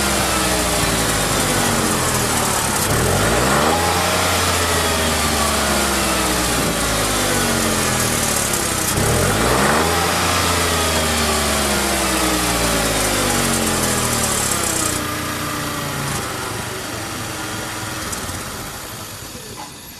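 Renault Twingo III's three-cylinder engine through a TEZZO aftermarket muffler, revved sharply about three seconds in and again near ten seconds, each time with the pitch sinking slowly back down. The sound eases off in the last few seconds.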